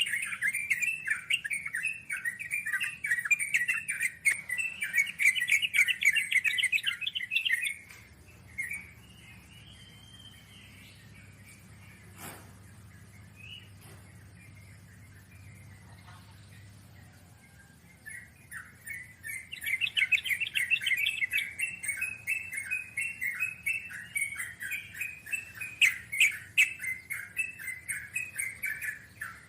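Wild sooty-headed bulbuls chattering in long, rapid runs of calls. The calls drop away for about ten seconds in the middle, leaving only a few faint notes, then start up again.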